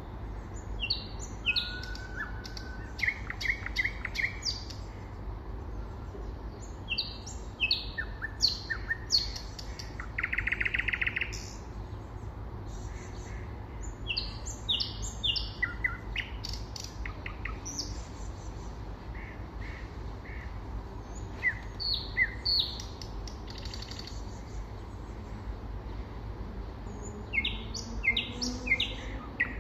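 Nightingale singing: phrases of rapid repeated whistled notes and trills, one with a buzzy rattle, broken by pauses of a few seconds.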